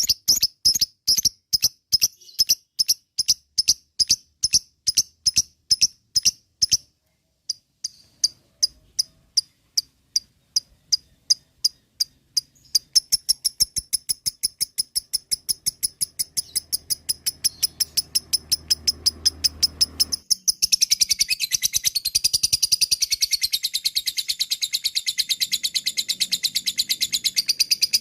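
Lovebird calling: sharp, high chirps repeated about three a second, a short break, then chirps that speed up into a long, rapid, continuous rattling chatter. This is the 'ngekek' call of an excited lovebird.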